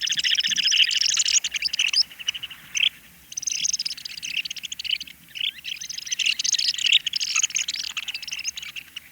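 Curlew sandpipers calling: a dense, rapid twittering of high chirruping notes, with short lulls about three seconds in and again near five seconds.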